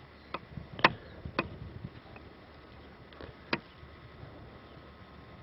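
Four or five short, sharp clicks or knocks, the loudest about a second in, over a faint low hum.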